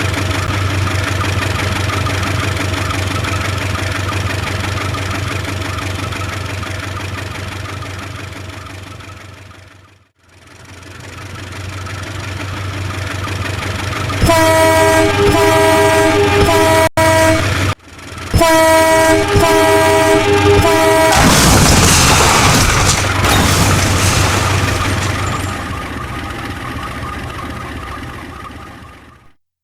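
Dubbed-in train sound: a locomotive engine rumbles steadily, fades out and swells back in. It then sounds two groups of short, multi-tone horn blasts, followed by a loud, noisy rush that fades away.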